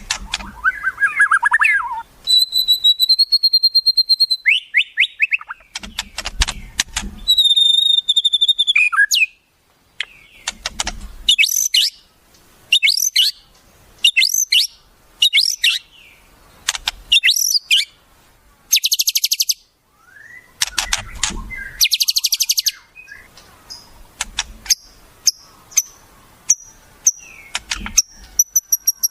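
Wild songbird calls from a bird-song tutoring track: two long held whistles with overtones, then a run of quick up-and-down sweeping notes, and fast buzzing trills, with short pauses between phrases.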